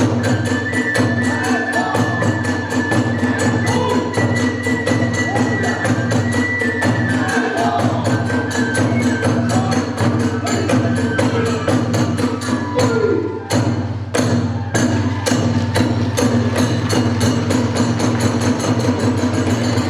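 Kagura hayashi music: drums and small hand cymbals keep up a fast, dense beat, with a high flute melody of long held notes in the first half. The beat breaks off for a moment a little past halfway, then picks up again.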